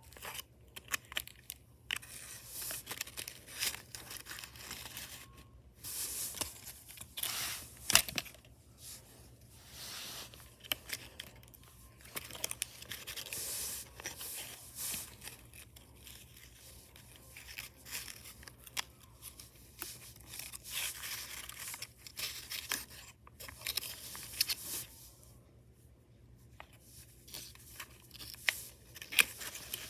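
Irregular scraping, crinkling and tearing-like noises broken by sharp clicks, in uneven bursts with short pauses.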